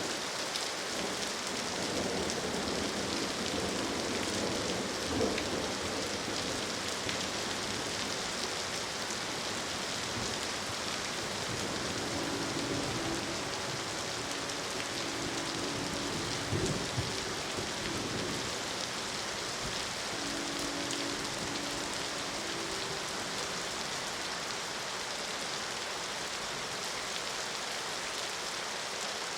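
Steady rain, with a low thunder rumble dying away over the first few seconds. A distant train horn sounds a chord in several held blasts about twelve to sixteen seconds in and again around twenty seconds in, with a short thud between them.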